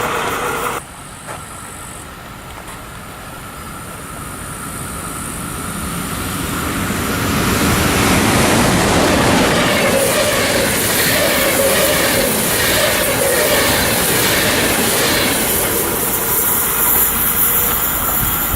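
A train approaching and passing close by: its noise builds over several seconds to a loud, steady rush, with the wheels clattering rhythmically over the rail joints.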